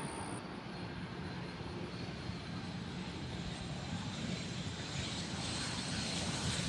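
Aircraft engine noise: a steady rush with a thin high whine, growing louder and brighter in the last couple of seconds.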